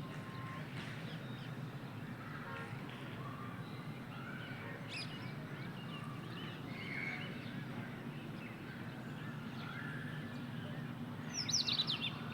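Parakeets and other birds chirping and calling over a steady low hum, with a burst of several quick, shrill high calls near the end, the loudest moment.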